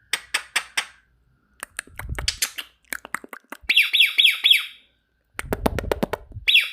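Pet parrot vocalising without words: bursts of quick sharp clicks and chatter, and a little past the middle a run of five rapid shrill repeated chirps, which starts again at the very end.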